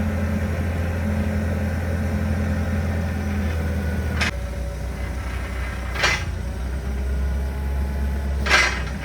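Gas (LPG) counterbalance forklift engine running steadily. A little over four seconds in, its note drops to a lower speed. Three short, sharp sounds come about 4, 6 and 8.5 seconds in.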